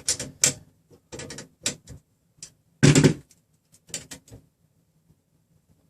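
A string of light clicks and knocks from a measuring tool and printer frame parts being handled while a distance is measured and adjusted, with one louder knock about three seconds in.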